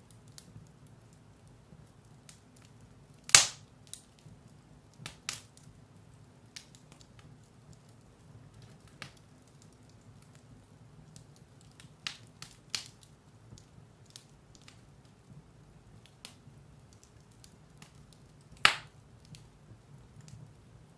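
Firewood burning in a fireplace: scattered sharp crackles and pops over a low steady rumble, with two loud pops, one about three seconds in and one near the end.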